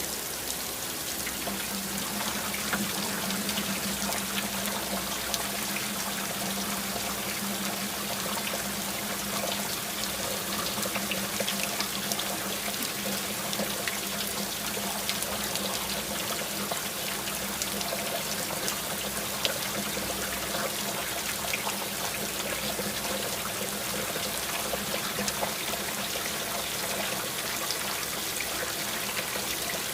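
Steady rain with water trickling and pouring, and many separate drops ticking. A low steady hum comes in about a second and a half in.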